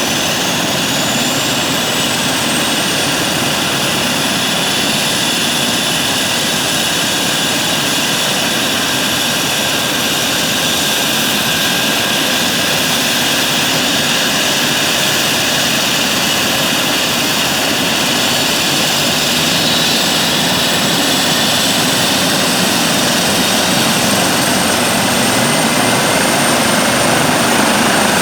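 Eurocopter EC135 T2 helicopter running on its twin Arrius 2B2 turboshaft engines: a steady, loud turbine and rotor noise with a high whine that climbs in pitch over the first dozen seconds and then holds. It grows slightly louder near the end.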